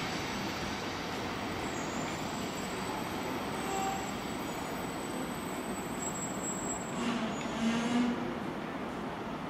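A 700 series Shinkansen train creeping into the platform and braking to a stop, a steady rumble of running and brake noise. A faint high whine runs until about seven seconds in, followed by a brief louder burst of higher-pitched sounds as it nears the stop.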